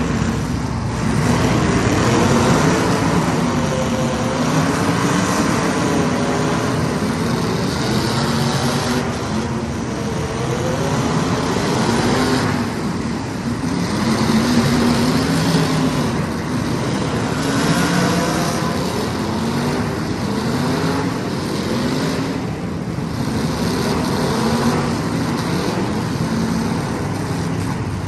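Several small race-car engines running hard around the track, their pitch repeatedly rising and falling as the cars accelerate, lift and pass by.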